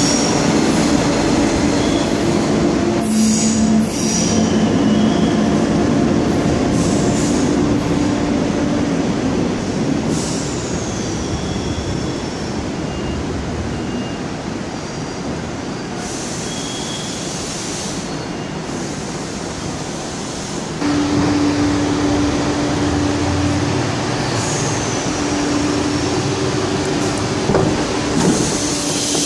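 Electric trains at a station platform: a departing train's motor whine and rolling rumble fading over the first several seconds, then, about two-thirds of the way in, another train arriving with a louder rumble and its motor tone returning. High-pitched wheel squeals come twice.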